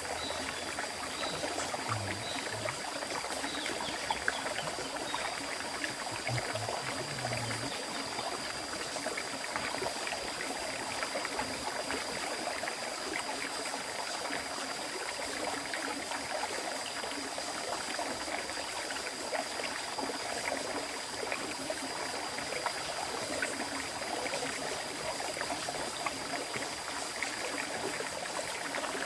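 Clear river stream flowing over rocks, a continuous rushing and trickling of water, with a thin, steady, high-pitched tone behind it.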